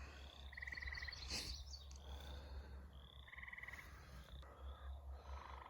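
Frogs calling in the wet ground: short pulsed trills of about half a second, repeated a few times, one lower-pitched near the end, with faint higher chirps between them.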